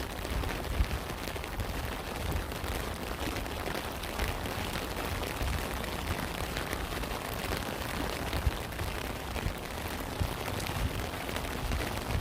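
Steady rain: a constant hiss with many close drops ticking and thudding.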